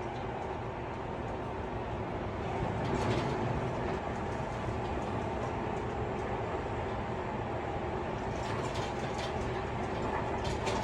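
Tobu 50090-series electric train heard from inside the car while running: steady rolling noise with a faint steady whine, and a cluster of rattling clicks about eight seconds in.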